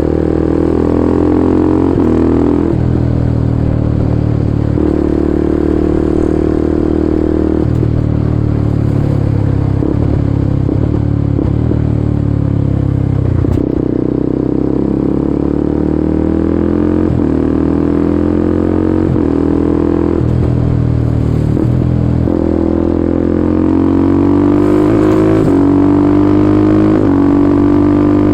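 Kawasaki Ninja 250SL single-cylinder engine breathing through a KEA Speed aftermarket exhaust while riding. Its note keeps climbing and stepping back down as it accelerates through the gears, eases off about halfway through, then pulls up through the gears again.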